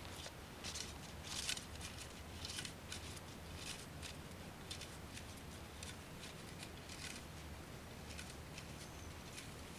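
Irregular soft rustling and scraping, a dozen or so short brushes, loudest about a second and a half in, over a faint steady hum.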